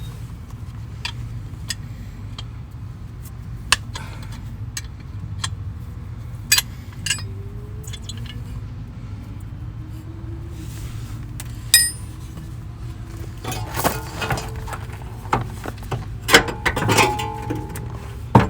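Sharp metallic clinks and taps of hand tools against a rusted strut bolt, scattered and growing busier near the end, over a steady low hum.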